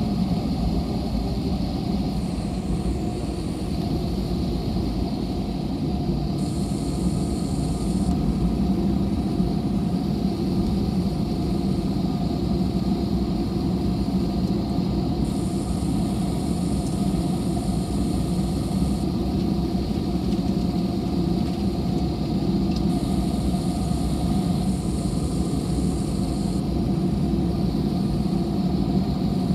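Airbus A320 cabin noise: the jet's engines running steadily, heard from inside the cabin as a low rumble. A faint high hiss comes and goes three times.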